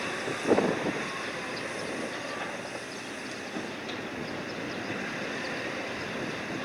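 A ship's deck crane and cargo handling at work: steady machinery noise with a loud knock about half a second in.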